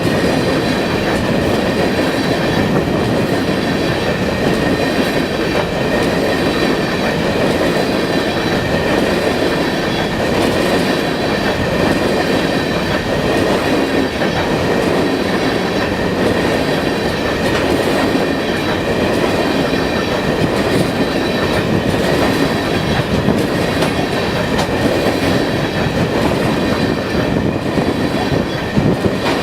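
Freight train of hopper cars rolling steadily past: a continuous rumble and clatter of steel wheels on the rails, with a thin high ringing tone riding over it.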